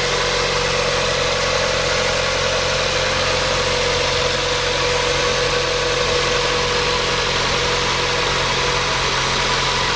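1999 Mazda Miata's 1.8-litre inline-four engine idling steadily, with no change in speed. The seller calls it smooth-running.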